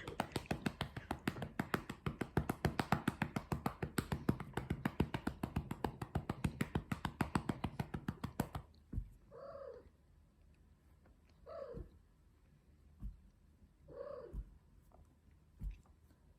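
Rapid, even patting on a cat's rump, about nine pats a second, which stops after about eight and a half seconds. The cat then meows three times, a few seconds apart.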